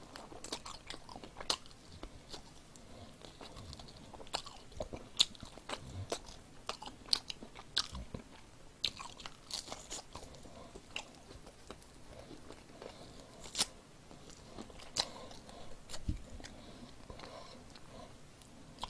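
Close-up chewing and biting of crispy perilla-leaf-battered fried chicken: irregular sharp crunches of the batter between quieter wet chewing.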